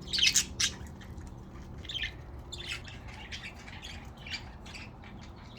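Budgerigars chattering, a rapid string of short high squawks and chirps, loudest in the first second and then continuing more sparsely.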